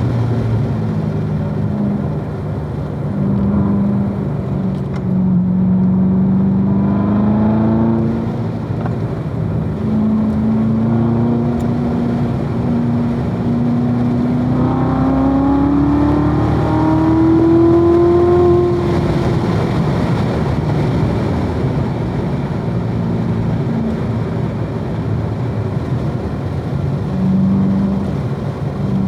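2016 Corvette Z06's supercharged 6.2-litre LT4 V8 being driven hard on track, engine pitch rising and falling with throttle and gear changes. A long rising pull runs from about a third of the way in to about two-thirds, then drops off sharply.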